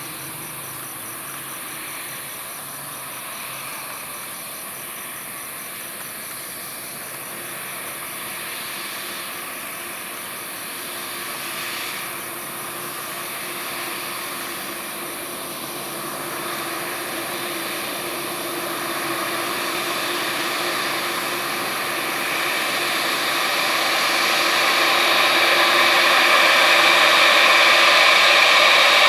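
Boeing 787-8 jet engines running, a steady whine over a rushing noise that grows steadily louder throughout, loudest near the end.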